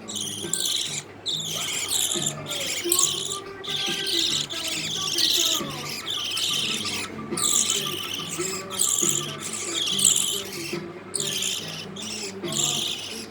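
Budgerigar chicks calling in a chorus of high, rapid cries, one after another with brief gaps. These are hunger calls from chicks wanting to be fed.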